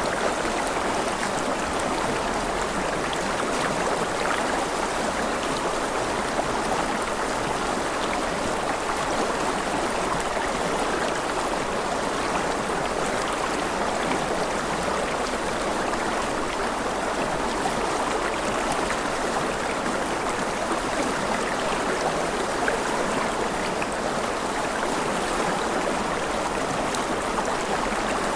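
Steady rushing water, an unbroken even wash of sound with no distinct splashes or changes, like a flowing stream.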